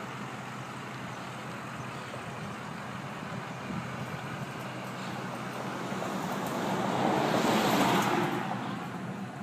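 A motor vehicle passes by, growing louder to a peak about seven to eight seconds in and then fading, over a steady low engine hum.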